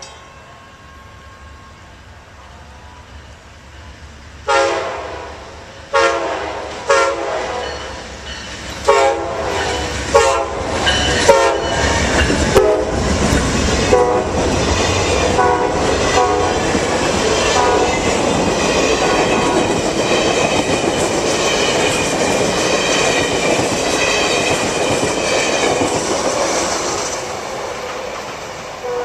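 Diesel locomotive horn sounding a string of short blasts, followed by the train rolling past with a steady clatter of wheels on the rails that swells, holds, then fades near the end.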